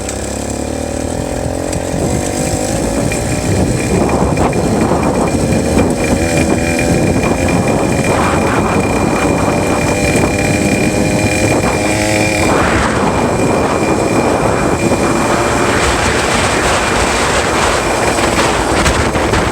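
66cc two-stroke bicycle engine kit running under way, its pitch climbing over the first several seconds as the bike accelerates, then holding steady at speed. A thin high-pitched squeal sounds over it, most plainly about ten to thirteen seconds in.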